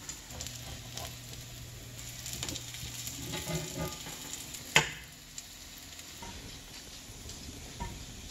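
Pumpkin fritters sizzling as they shallow-fry in oil in a cast-iron skillet, with a metal spatula scraping and clicking against the pan. One sharp clack comes near the middle.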